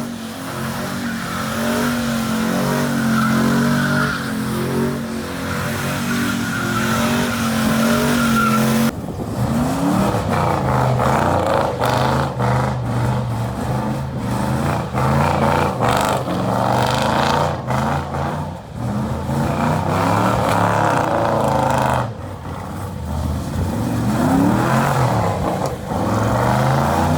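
Car engine at high revs, held steady for several seconds. After a sudden change about nine seconds in, it is revved up and down repeatedly over a screeching, hissing noise like spinning tyres.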